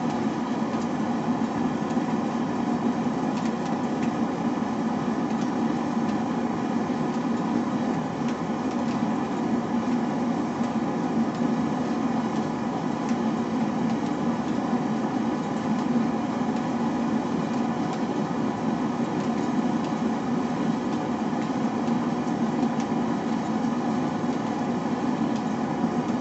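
A forge running with a steady, even drone made up of several steady tones, with no change in pitch or level.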